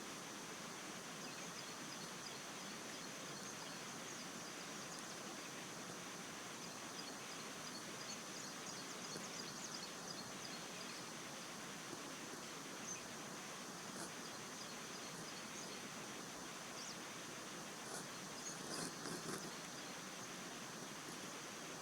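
Forest background dominated by a steady high-pitched insect drone with faint rapid ticking, and a few brief sharp calls or rustles near the end.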